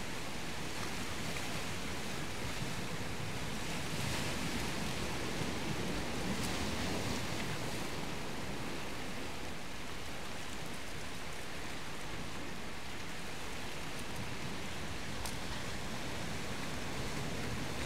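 Steady wash of sea surf, an even rushing noise with no clear breaks.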